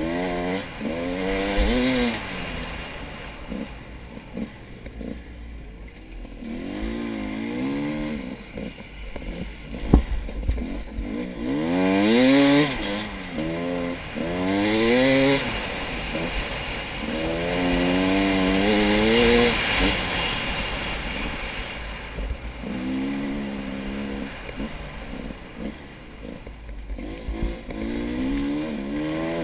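Motorcycle engine revving up and down repeatedly, its pitch climbing and dropping in a series of surges, with a single sharp knock about ten seconds in.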